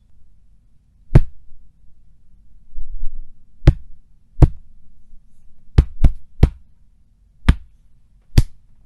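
A series of comedic punch and hit sound effects: eight sharp impacts at uneven intervals, three in quick succession just past the middle, over a faint low hum.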